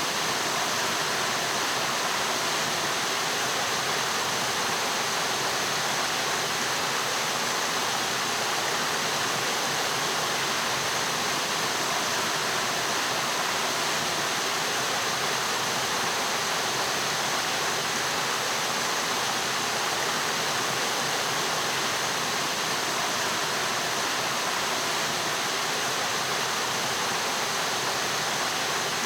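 Mountain stream water rushing steadily, an even rush with no breaks or changes.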